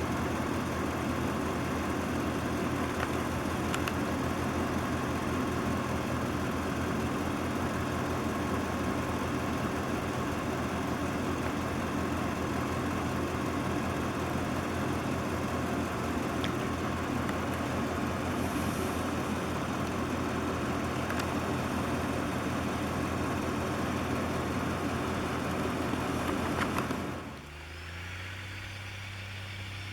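Heavy six-wheel-drive plow truck's diesel engine running steadily under a dense rushing noise. Near the end the sound drops abruptly to a quieter, lower steady engine hum.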